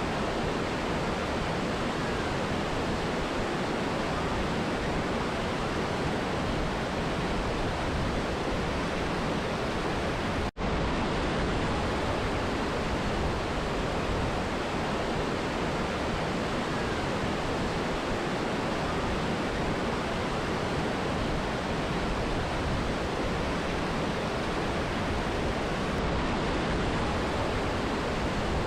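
Mountain river and waterfall, a steady even rush of water, cutting out for an instant about ten seconds in.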